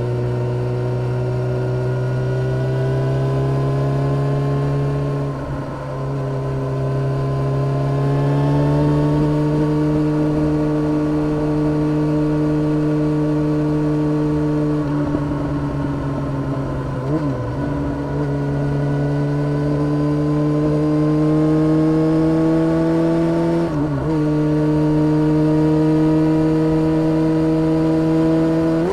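2013 Yamaha XJ6-S inline-four engine running through a full Black Widow exhaust with no catalytic converter, under way at a steady mid-range note. The pitch creeps slowly upward, with brief dips in the engine note three times, near 6, 17 and 24 seconds.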